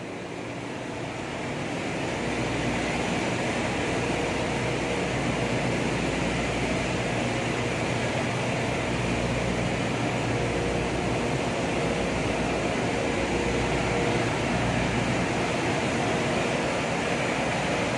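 Steady machinery noise in a crude tanker's engine room: a constant mix of running machinery hum and fan rush with a few steady tones. It grows louder over the first two seconds, then holds level.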